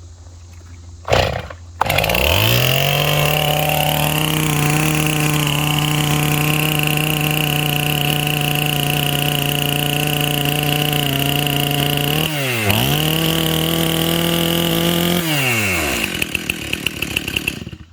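Stihl chainsaw with a freshly sharpened chain, revved up and held at full throttle while it cuts through a wooden pole. The revs dip briefly and recover about twelve seconds in, then drop back when the throttle is released near the end.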